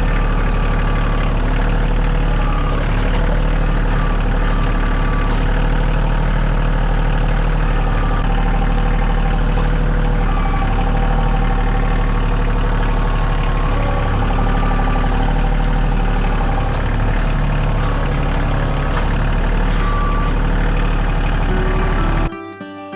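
Heavy engine running steadily with a deep hum, stopping abruptly near the end as acoustic guitar music comes in.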